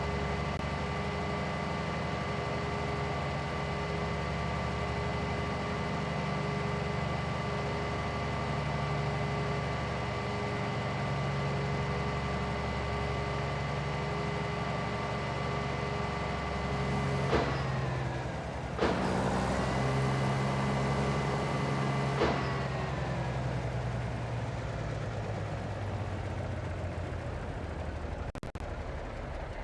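Tow truck running while a race car is loaded, a low engine rumble under a steady mechanical whine. The whine cuts off sharply with a knock about two-thirds of the way through, comes back a second later, then stops, leaving the engine running.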